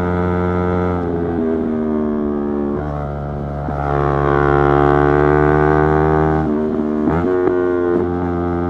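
Yamaha YZF-R3 parallel-twin engine under way. It shifts up about three seconds in, pulls harder for a few seconds, then eases off and gives a quick rev blip about seven seconds in.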